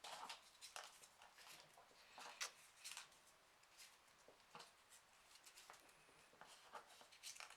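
Faint, irregular rustling and crinkling of small folded printer-paper origami pieces being handled and pushed into place on a 3D origami model.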